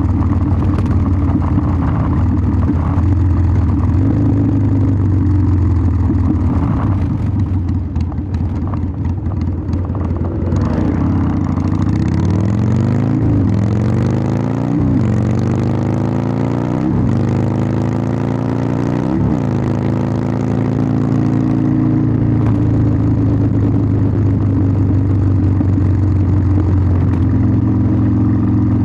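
Harley-Davidson Sportster 1200's air-cooled V-twin running through its exhaust, low and steady at first, then accelerating through the gears about halfway through: the pitch climbs and drops sharply four times at the upshifts before settling into a steady cruise.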